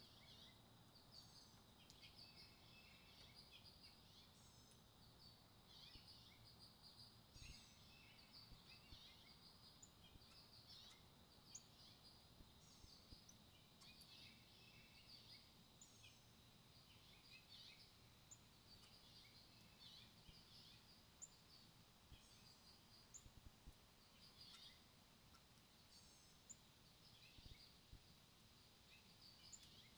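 Faint songbird chirps and short high calls, repeated every second or so, over a soft low background rumble.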